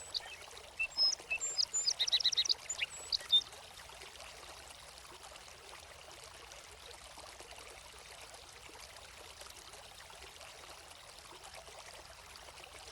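Small birds chirping in quick short phrases over the steady rush of running water; the birds stop about three and a half seconds in, leaving only the even, faint flow of the stream.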